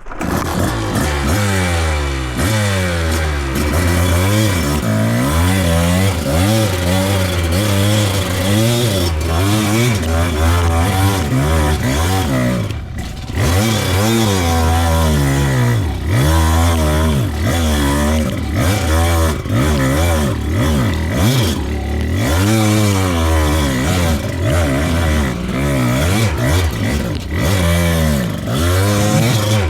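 Kawasaki KDX220's two-stroke single-cylinder engine revving up and down over and over under load as the dirt bike climbs a hill in second gear, the rider feathering the clutch. The revs drop briefly about 13 seconds in.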